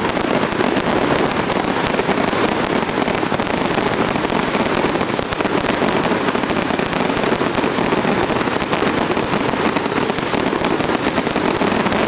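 Fireworks going off in rapid, continuous succession: a dense, unbroken crackle of many small bursts with no pause.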